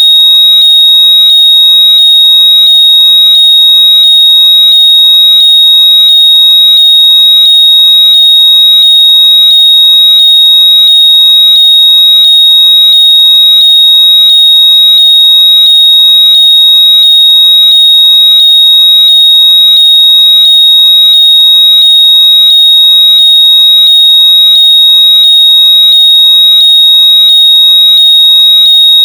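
Very loud, high-pitched electronic locator tone, a piercing steady whistle with short rising chirps pulsing through it about every two-thirds of a second, meant to be played through lost earbuds or headphones so they can be heard and found.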